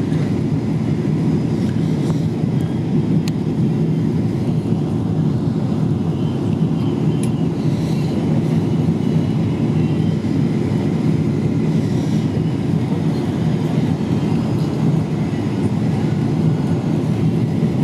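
Steady low rumble inside the passenger cabin of a Boeing 777-200 during landing, the level holding even throughout.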